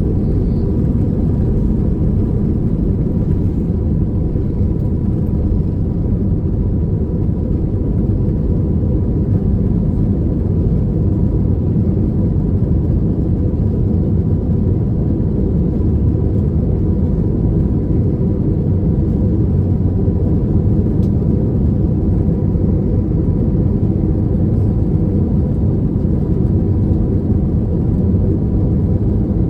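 Airbus A321 jet engines and airflow heard from inside the cabin during takeoff: a loud, steady low rumble with a faint steady whine.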